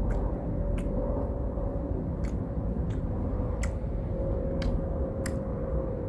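A person chewing a mouthful of chewy grilled pig tongue with the mouth closed, giving about seven sharp, wet mouth clicks at an uneven pace. They sit over a steady low rumble and a faint steady hum.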